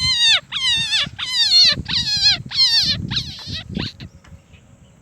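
A bird giving loud, harsh alarm calls over and over, about two a second, each dropping in pitch at its end, stopping about four seconds in: the scolding of a parent bird attacking intruders near its chick.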